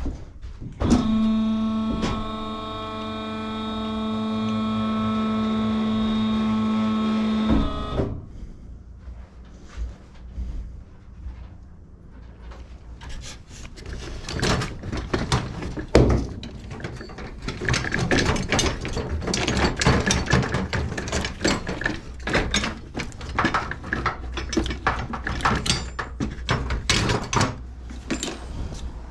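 A steady pitched mechanical hum runs for about seven seconds and cuts off abruptly. It is followed by irregular clatter and knocks of parts and tools being handled.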